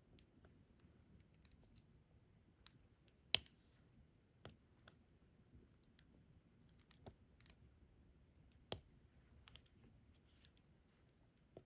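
Small sharp plastic clicks and taps at irregular spacing, from a diamond-painting drill pen picking up resin drills and pressing them onto the canvas. Two taps, about three and a half and nine seconds in, stand out louder.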